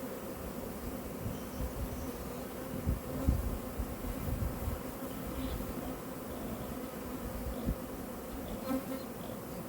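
A large swarm of honey bees buzzing in a steady, even hum. Irregular low rumbles come and go underneath, the strongest about three seconds in.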